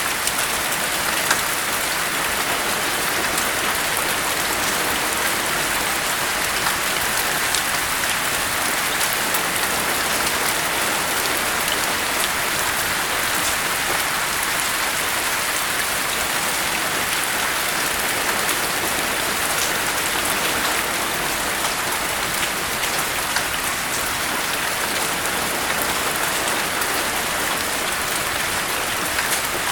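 Steady rain falling, an even dense hiss with scattered individual drop patters and no rises or breaks.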